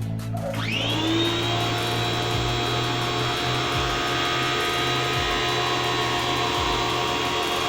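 Tecna electric pressure washer starting up about half a second in, its motor whine rising quickly in pitch, then running steadily with a high whine over a hiss.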